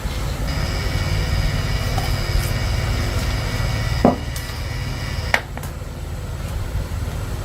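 A steady low rumble like an engine running, with a faint high whine over it for most of the time, and two sharp knocks about four and five and a half seconds in.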